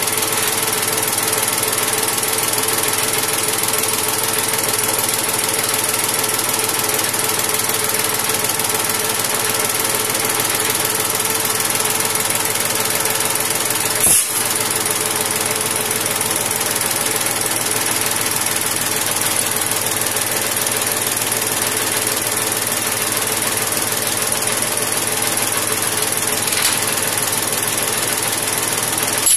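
Machinery running steadily with a rapid mechanical clatter, and one sharp click about fourteen seconds in.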